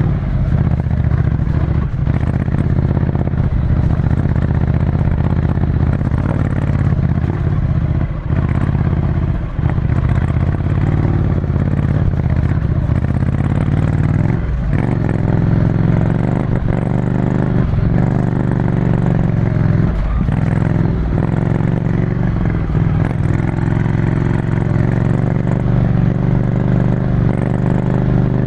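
Ducati Scrambler Desert Sled's air-cooled 803 cc L-twin, breathing through a full Termignoni exhaust, running at fairly steady revs under way. The note dips briefly a few times.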